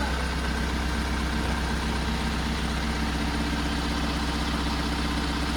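BharatBenz truck's diesel engine running steadily, a constant low hum with no change in speed.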